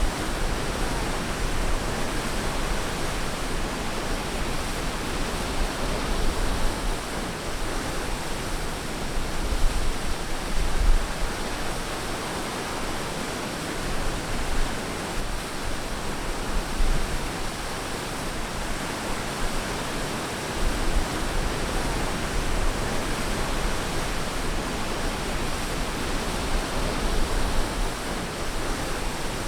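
Ocean waves washing onto a beach: a steady rushing surf that swells and eases a little from moment to moment, with a low rumble that comes and goes.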